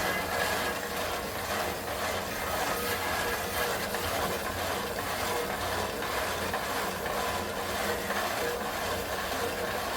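Concrete mixer running steadily, its drum turning with a continuous mechanical churn as it mixes a batch of concrete.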